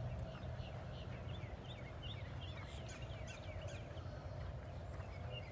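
Birds chirping: many short, quick, falling chirps, over a steady low rumble.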